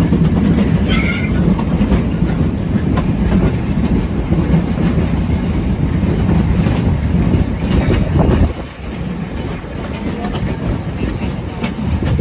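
Narrow-gauge tourist train running, heard from inside an open-sided carriage: a steady rumble of wheels on rail with repeated clicks of the rail joints. The rumble drops a little in level about two thirds of the way through.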